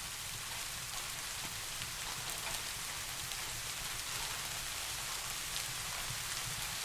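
Steady soft rain: a continuous hiss with many small drop ticks scattered through it, and a steady low rumble underneath.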